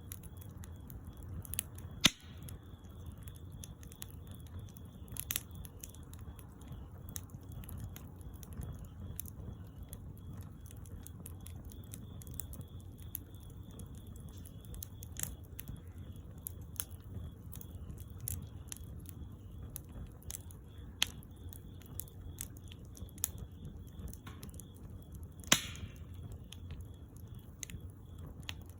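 Wood bonfire crackling, with scattered small snaps over a steady low background noise and two sharp, louder pops, one about two seconds in and one near the end.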